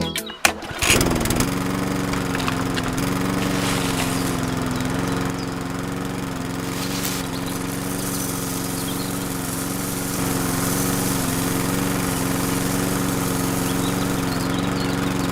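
A small engine starts about a second in, its pitch dropping as it settles, then runs steadily before cutting off abruptly.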